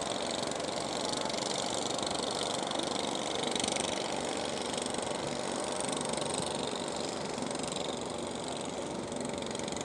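Fishing boat engines running steadily.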